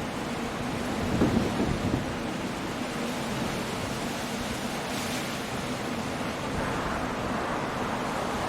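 Steady noise of a coastal storm: rain, wind and surf, with a brief low rumble about a second in.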